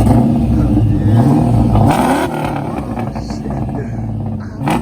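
Supercharged 4.6-litre V8 of a 2000 Ford Mustang GT (Vortech centrifugal supercharger) running and being revved. The pitch climbs a little past a second in and drops back about two seconds in, then settles at a lower steady note.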